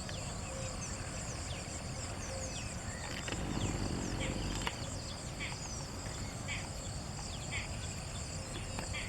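Insects trilling steadily, with short high chirps repeating through it and a brief low rumble about three and a half seconds in.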